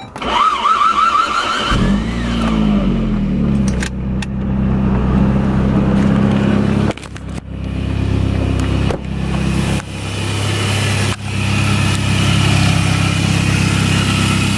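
Saab turbo car engine cranked by its starter for about two seconds, then catching, flaring up in revs and settling into a steady idle. It is the first start after the engine bay was washed with degreaser and a hose, and the engine fires.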